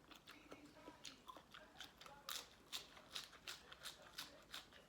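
Close-up mouth sounds of someone chewing crunchy som tam (green papaya salad with shrimp and squid): soft wet clicks at first, then steady crisp crunches about two or three a second from about halfway in.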